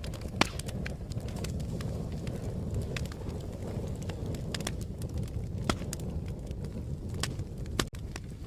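Wood fire crackling: a steady low rumble of flames with sharp pops and snaps scattered irregularly throughout, one of the loudest about half a second in.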